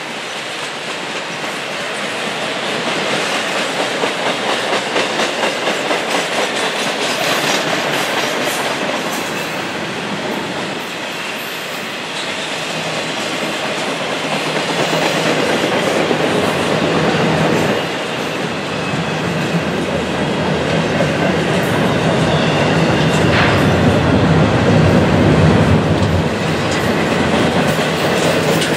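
Double-stack intermodal freight train's loaded well cars rolling past at close range: steady rumble and clatter of steel wheels on the rail, getting a little louder in the second half. Near the end a chain dragging under one of the cars can be heard, a dragging-equipment fault.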